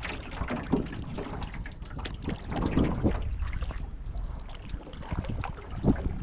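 Water splashing and trickling around a canoe in irregular strokes, as a paddle dips and drips, over a low rumble.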